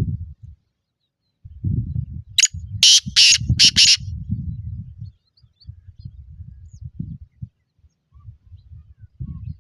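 Black francolin calling: one harsh, grating phrase of about four rapid notes a couple of seconds in, over low rumbling background noise.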